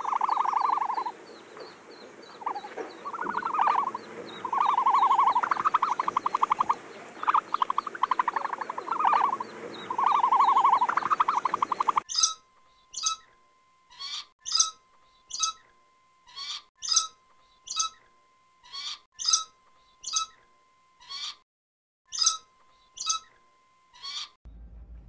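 For the first twelve seconds, bursts of a rapid pulsed animal call, each about a second long, repeat over a background hiss. The sound then switches suddenly to a great hornbill's loud barking calls, repeated about once a second and sometimes doubled, over a faint steady whistle tone.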